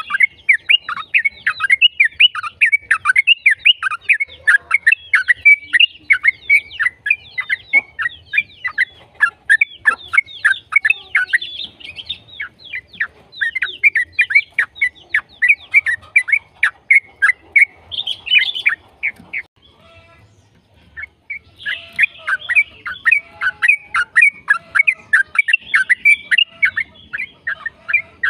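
Yellow-vented bulbul (trucukan) singing a fast, continuous run of chattering, sharply falling notes, broken by a pause of about two seconds past the middle.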